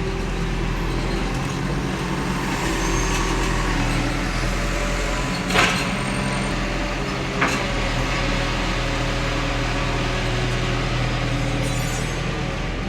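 Diesel engine of heavy earthmoving machinery running steadily, with two sharp knocks a couple of seconds apart about halfway through.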